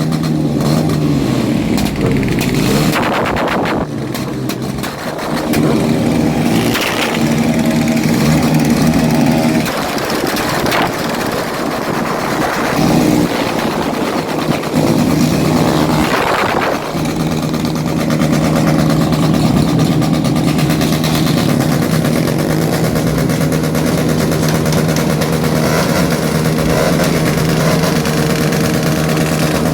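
Motorcycle engine running and revving: the revs rise and fall several times, then from about halfway hold a steady high drone.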